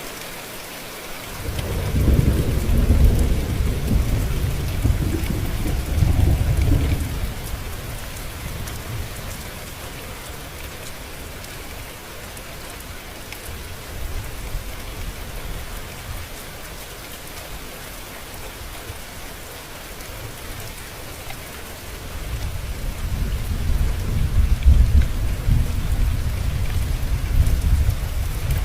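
Steady rain falling, with two long rolls of low thunder: one starting about a second and a half in and fading after about five seconds, and another building near the end.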